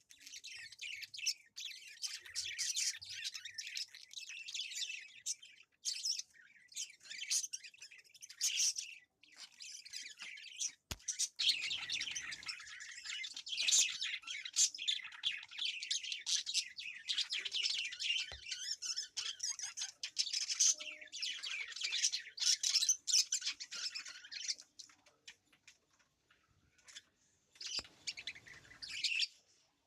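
Small birds chirping and twittering busily in spells, with short pauses between.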